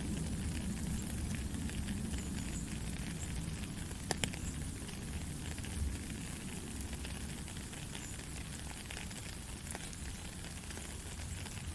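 Heavy rain falling steadily, with a dense crackle of drops and a low rumble underneath. A sharper drip click stands out about four seconds in.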